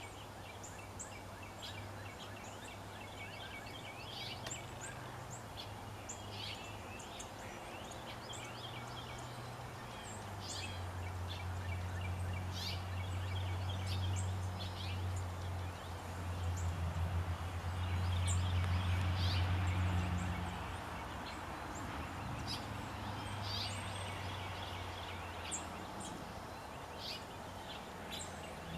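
Wild birds calling, with many short, high chirps scattered throughout, over a steady low rumble that grows louder in the middle and then eases off.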